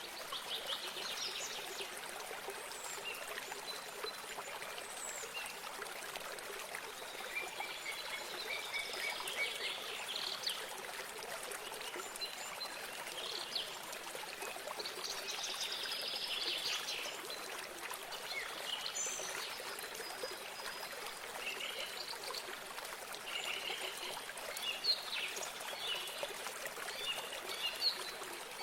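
Water from a small spring or stream trickling steadily, with songbirds chirping and trilling over it in short, scattered calls.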